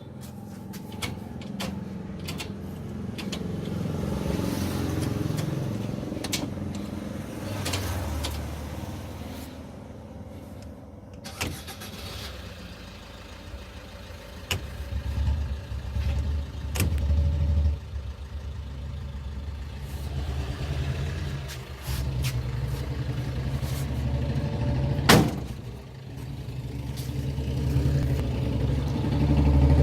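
Maruti Gypsy engine running, revved up and down several times with its pitch rising and falling, and climbing again near the end. One sharp clack about 25 seconds in.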